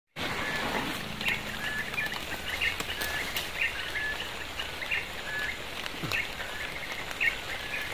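Birds calling: short chirping notes repeated over and over, over a steady outdoor hiss.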